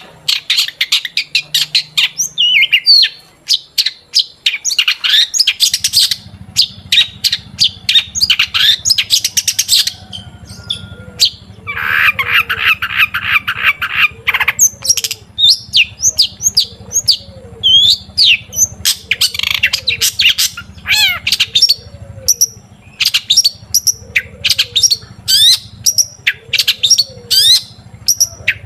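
Long-tailed shrike singing continuously: a fast, varied run of high chirps, slurred whistles and harsh notes, with a buzzy rattling stretch about twelve seconds in.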